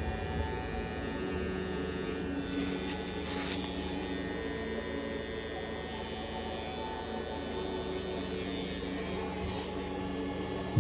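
Tattoo machine buzzing steadily as it runs.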